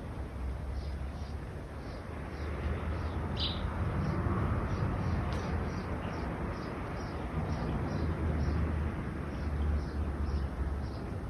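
A small bird chirping repeatedly in short high notes, about two a second, with one louder, falling note partway through, over the steady low rumble of road traffic.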